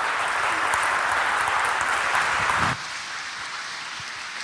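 Congregation applauding, loudest for the first two to three seconds, then dropping off abruptly to a softer patter.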